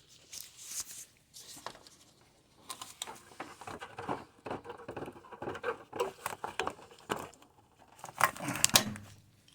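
Irregular clicks, taps and rustling of hands and tools working at the radiator bracket under the hood, busiest near the end.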